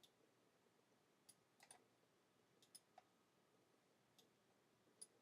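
Faint, scattered computer mouse clicks, about six or seven spread unevenly over a few seconds, against near silence.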